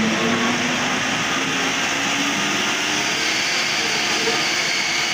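Steady engine and road noise of a moving vehicle, with faint wavering tones underneath.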